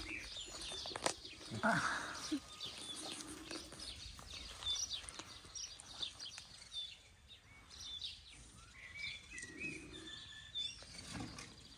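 Small birds chirping and twittering in short, scattered calls, with a few faint knocks and rustles.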